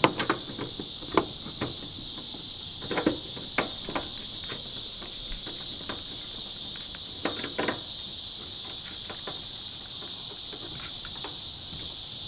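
Steady high-pitched drone of insects, with scattered light knocks and clicks from hand work on a truck door's weatherstripping, bunched about three seconds in and again around seven seconds in.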